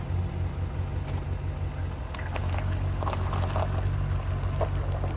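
Vehicle engine idling, a steady low hum, with a few faint knocks over it.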